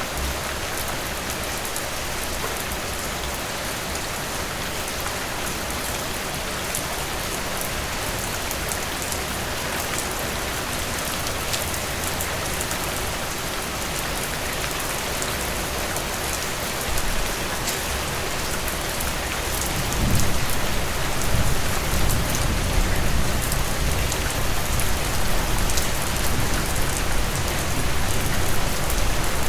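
Heavy rain pouring steadily, a dense hiss of drops with fine patter on top. About two-thirds of the way through, a deeper low rumble swells in under the rain and carries on to the end.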